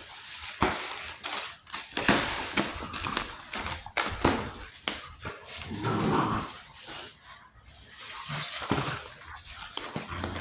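Rottweiler puppy tussling with a package: scraping, rustling and knocking throughout, with a short dog vocal sound about six seconds in.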